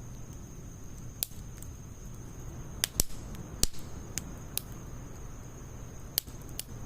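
Wood fire of logs and pine needles crackling, with scattered sharp pops and a cluster of louder pops about three seconds in.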